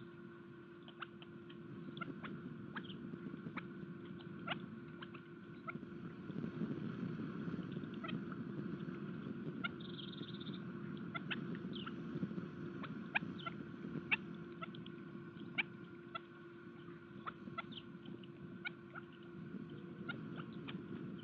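Birds pecking at seed on a garden bird feeder: irregular sharp taps, several a second, over a steady low hum.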